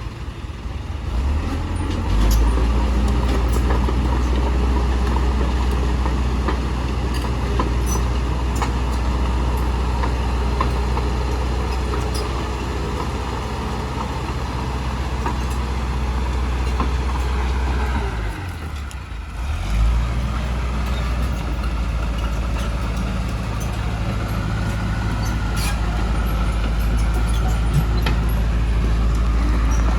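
A heavy earthmoving machine's diesel engine running with a loud, steady low drone. The engine note drops away briefly about two-thirds of the way through, then picks back up. Scattered short clicks and knocks sound over it.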